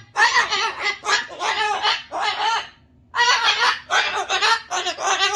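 Pet cockatoo ranting in a string of loud, harsh calls, each under a second, about six in a row with a short pause about halfway through.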